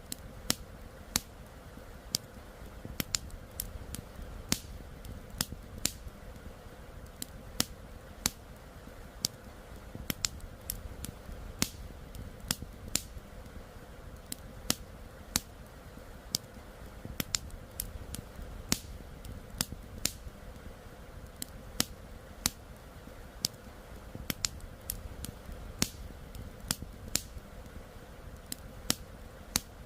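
Wood campfire crackling, with sharp irregular pops a few times a second, over a steady low rush of flowing river water.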